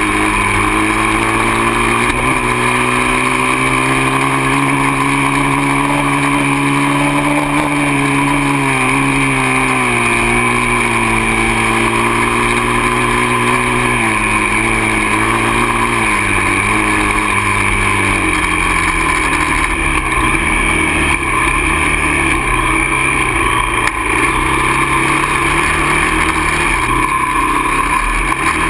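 Dirt bike engine running under way, its pitch easing up, holding, then dropping over several seconds and wavering up and down near the end as the throttle opens and closes.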